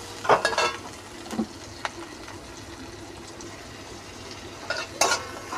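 Chopped onions sizzling softly in ghee in a metal kadai on low heat, with a few sharp taps and a scrape of the steel spatula against the pan.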